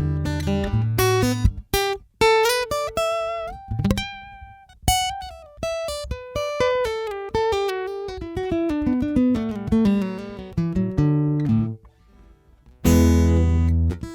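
Seagull S6 Spruce Sunburst GT steel-string acoustic guitar heard through its Godin Q1T pickup and preamp. A few picked chords lead into a descending run of single notes, then a short pause and a loud strummed chord near the end that rings on.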